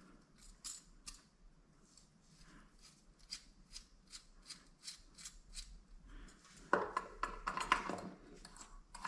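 A run of light metal clicks, then louder rattling and rubbing near the end: small toilet tank bolts being handled and threaded into place.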